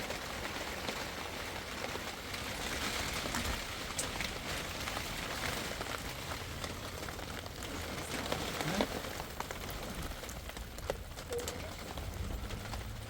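Steady rain falling, an even hiss with scattered sharper drop ticks, over a low rumble.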